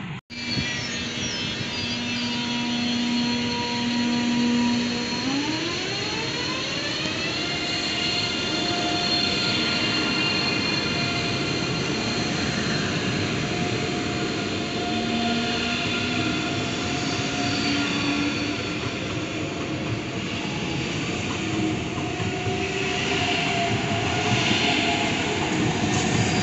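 DB Class 403 ICE 3 high-speed electric train moving slowly along the platform. Its traction converters whine in a set of tones that glide upward together about five to seven seconds in, as the train picks up speed, then hold steady over the rumble of wheels on rail.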